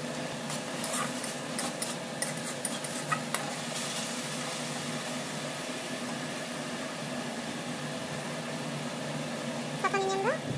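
Masala paste sizzling in a kadai while a metal spatula clicks and scrapes against the pan in the first few seconds, over a steady low hum. Near the end there is one brief rising squeak-like tone.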